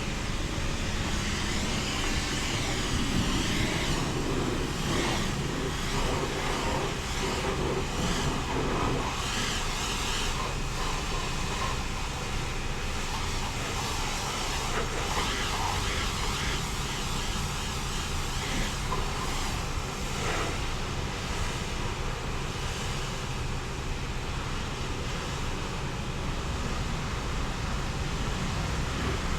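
Automatic car wash machinery running: a steady low rumble under irregular swishing and spraying noise, busiest in the first twenty seconds.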